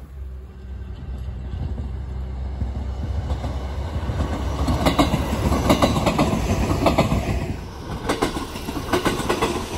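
Electric commuter train passing close by, its running noise growing louder a few seconds in, with the wheels clacking over rail joints several times a second as the cars go past.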